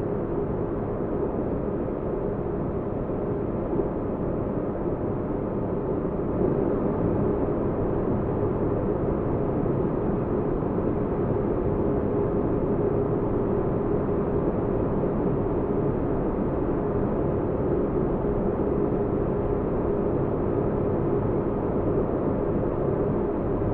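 Synthetic spaceship-interior ambience: a steady deep rumbling noise with a faint constant hum, like a ship's engines heard from inside a cabin.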